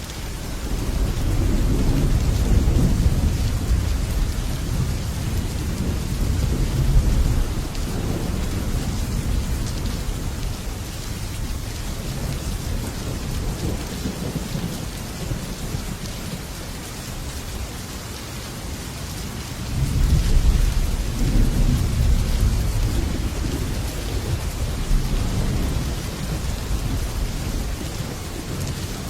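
Heavy rain drumming steadily on a metal roof, with two long rolls of thunder: one starting about a second in and rumbling for several seconds, the second about two-thirds of the way through.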